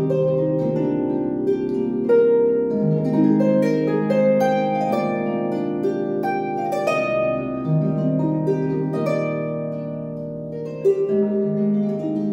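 Harp playing a gentle flowing passage of plucked notes that ring on over one another, with a steady bass pattern underneath.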